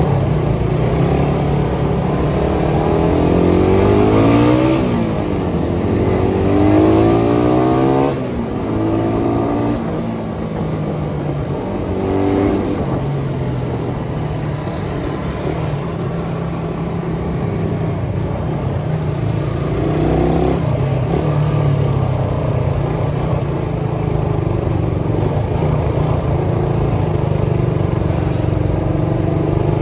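Suzuki Satria FU 150 single-cylinder four-stroke engine and exhaust accelerating on the move. Its pitch climbs twice in the first eight seconds and drops sharply at each gear change, rises briefly again twice more, and otherwise holds a steady cruising drone.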